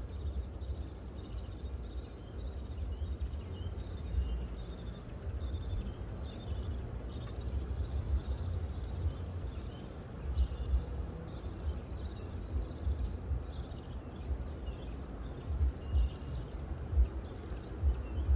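Steady, unbroken high-pitched insect trill, such as crickets, with an uneven low rumble of wind on the microphone.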